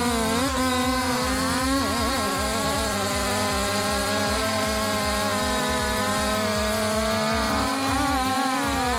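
Large two-stroke chainsaw running at high revs, its pitch dipping briefly a few times as it comes under load.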